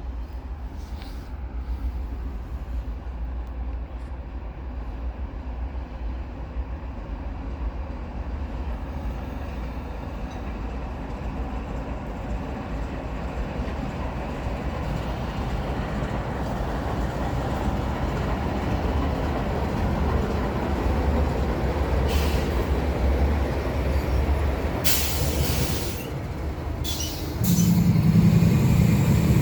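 A train running past on the rails: a steady low rumble of wheels and cars that grows louder, with a few sharp hissing bursts late on, and a locomotive's diesel engine hum coming in loud near the end.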